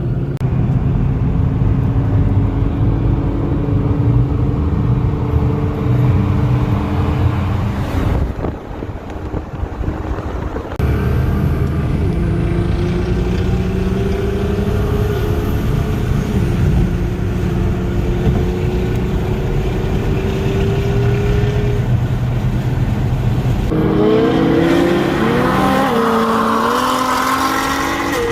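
Car engines running during a group drive: a steady low drone with slowly changing pitch. It breaks off and shifts abruptly twice, about a third of the way in. Near the end the pitch sweeps up and down as an engine revs.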